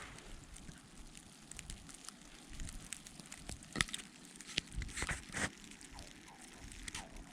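Low, gusty rumble of wind on the microphone, with scattered irregular crackles and clicks. The sharpest come a little before the middle and twice more about two thirds of the way in.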